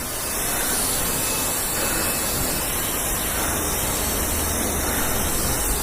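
Self-serve car wash wand spraying pre-soak, a steady hiss of water spray.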